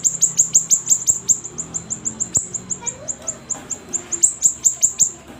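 Siri-siri bird singing a rapid series of sharp, high notes that each sweep downward, about seven a second, briefly softer past the middle.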